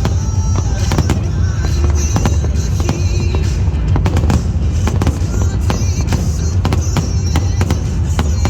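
Fireworks bursting in a rapid string of sharp bangs and crackles over loud music with a heavy, steady bass.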